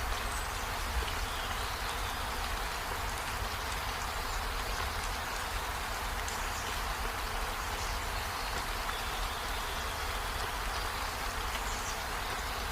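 Steady rain falling: an even, unbroken hiss of drops with a low rumble underneath.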